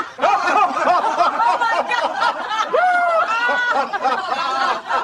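Several people laughing at once, overlapping giggles and chuckles.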